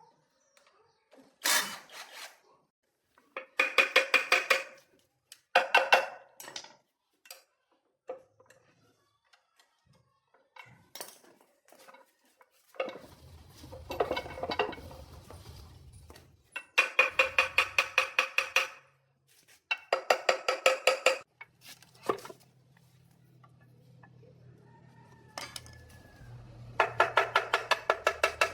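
Metal being struck in quick runs of ringing strikes, about eight a second, in four bursts, with single clanks between them. A low steady hum runs through the middle and again near the end.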